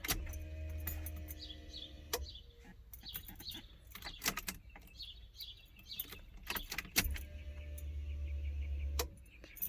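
Electric fuel pump of a 6.0 LS-swapped Firebird humming steadily twice, about two seconds each time, as the key is cycled to prime the empty fuel system before a first start. Birds chirp faintly in the gap between the runs.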